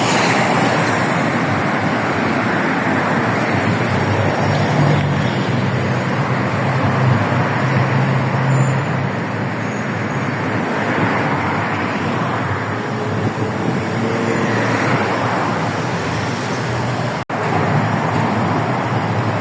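Steady, loud road traffic on a busy highway: cars passing continuously, with a lower engine hum standing out from about four to nine seconds in. The sound drops out for an instant near the end.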